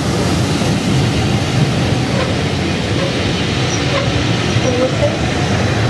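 Passenger coaches of a train passing at speed close by, a steady loud rumble of wheels and bogies on the track.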